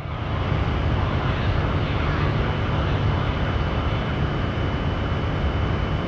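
Steady low rumble and hiss of an elevated Shinkansen line, with an E2 series Shinkansen approaching in the distance, plus a thin steady high tone.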